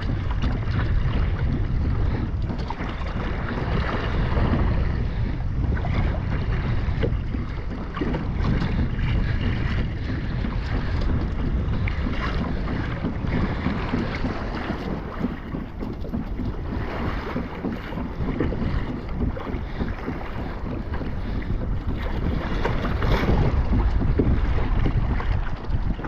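Wind buffeting the microphone over water splashing and sloshing around a kayak at sea, rising and falling in gusts.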